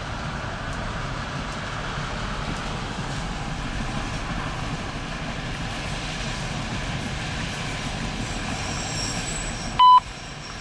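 Empty autorack cars of a CSX freight train rolling past, a steady rumble of wheels on rail. Near the end, a short, loud beep from a railroad scanner radio as the trackside defect detector's broadcast comes on.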